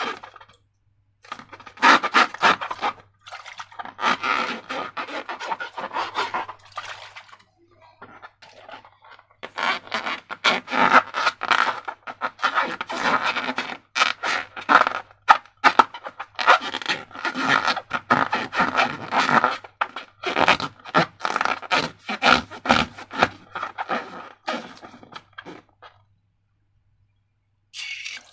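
Slime being worked by hand: sticky squelching and crackling in uneven bursts, with short pauses, stopping shortly before the end.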